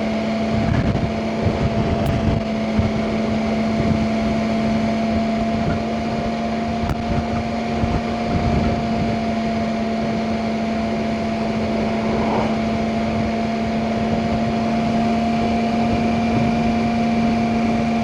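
Motorcycle engine running at a steady speed while riding, with wind buffeting the microphone.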